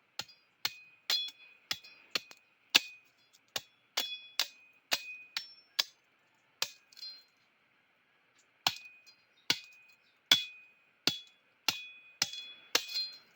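A metal blade chopping at a wooden stick to cut and shape it, about two dozen sharp strikes that ring, mostly about two a second, with a pause of a couple of seconds midway.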